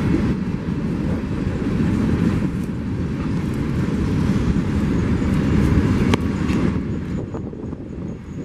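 Train passing, a steady low rumble of rolling railcars that eases off over the last couple of seconds, with a sharp click about six seconds in.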